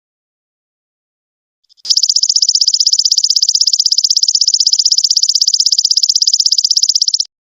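Belalang emas (golden locust) insect calling: after a silent pause, a loud, high-pitched, fast pulsing trill starts about two seconds in, runs steadily for about five seconds and cuts off suddenly.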